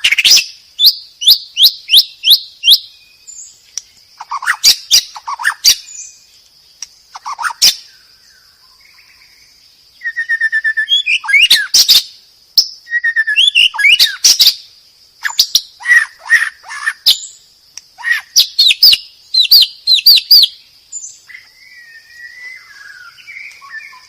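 White-rumped shama (murai batu) singing: loud bursts of rapid whistled and sweeping notes, phrase after phrase with short pauses between them, over a steady high-pitched tone in the background.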